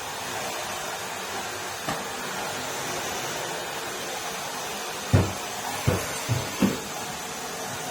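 Numatic Henry canister vacuum cleaner running steadily, with four sharp knocks in the second half.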